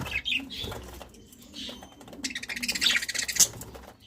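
Budgerigars chirping and chattering, with a denser burst of chatter and rustling in the second half and a sharp click near the end.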